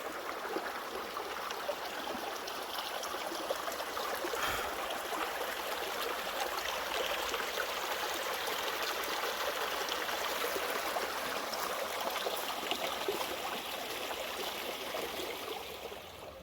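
Running water flowing steadily with an even rushing sound.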